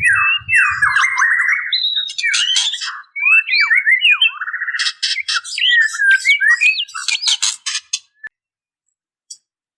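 Female white-rumped shama calling for a male, as a bird in breeding condition does: quick harsh crackling rattles mixed with short whistled notes that swoop up and down. The calling stops about eight seconds in.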